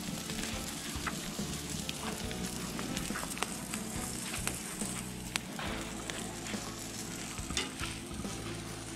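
Food sizzling as it fries, with scattered sharp crackles over a steady hiss.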